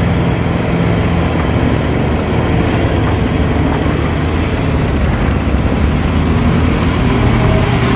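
Heavy diesel engine of an earthmoving machine running steadily, a continuous low drone.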